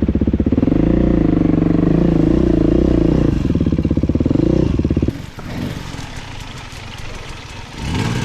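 Beta dirt bike engine pulling hard at steady throttle, its pitch wavering slightly. About five seconds in the throttle is shut and the engine sound drops off sharply, then builds again near the end.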